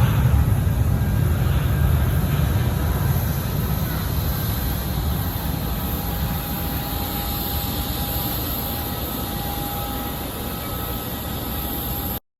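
Boeing 777-200ER jet engines: a steady low rumble under a high hiss, slowly fading as the aircraft moves away, then cutting off abruptly just before the end.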